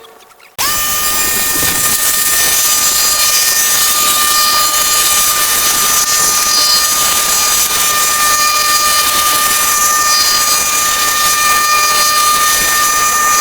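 A machine switched on abruptly, giving a loud, steady hiss with a high, even whine over it.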